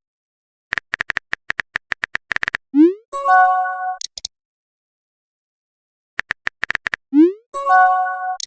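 Messenger sound effects: a quick run of keyboard tap clicks, then a short rising swoop and a chiming notification tone as a message is sent. The sequence plays twice, with about two seconds of silence between.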